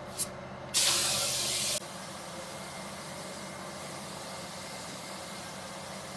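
Compressed air hissing out of a nozzle: a very short puff, then a blast lasting about a second, over a steady low hum.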